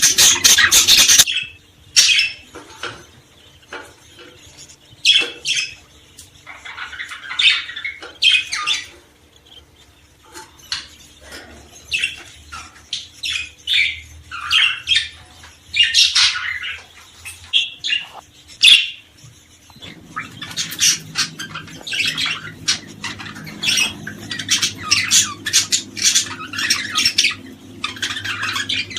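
Small songbirds chirping and calling, many short sharp calls overlapping. The calls come thickly at the start and again from about two-thirds of the way through, and more sparsely in between.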